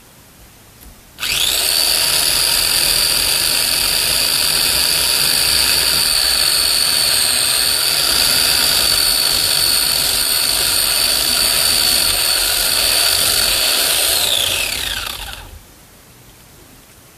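Electric chainsaw motor starting abruptly and running at a steady high whine for about thirteen seconds, then winding down with a falling pitch and stopping.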